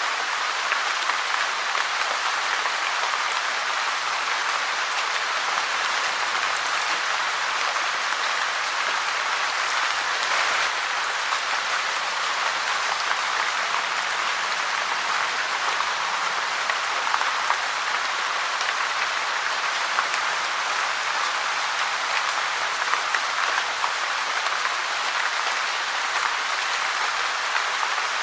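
Rain falling steadily: a dense, even hiss that holds the same strength throughout.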